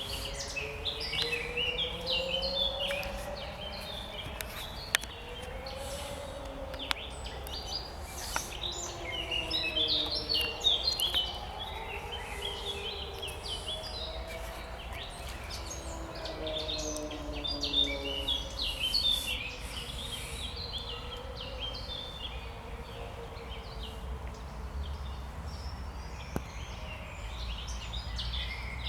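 Several songbirds singing at once in a spring chorus, dense overlapping chirps and trills throughout, over a low wavering drone and a low rumble of background noise.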